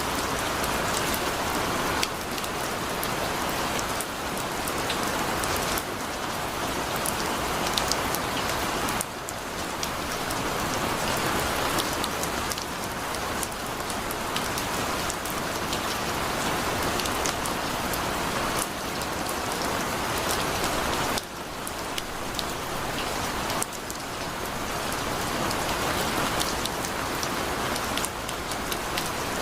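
Heavy rain pouring steadily: a dense hiss with sharp individual drop hits on top. The loudness jumps up or down abruptly every few seconds.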